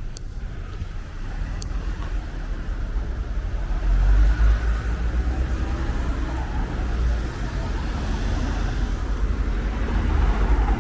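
Road traffic: a car passing close by, its engine and tyre noise swelling about four seconds in.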